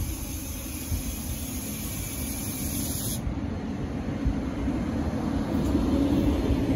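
Thameslink Class 700 Siemens Desiro City electric multiple unit moving past close by, a low rumble building steadily louder as the carriages go by. A high hiss sounds over it for the first three seconds and then cuts off suddenly.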